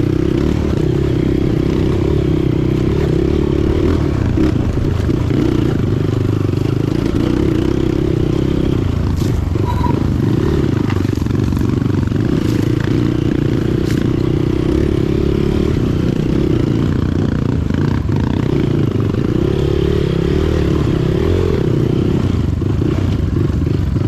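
Motorcycle running at a steady speed while being ridden.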